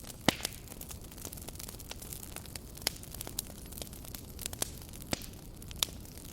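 Wood fire burning with a low steady rumble and hiss, and irregular sharp pops and crackles, the loudest about a quarter of a second in and others near three, five and six seconds in.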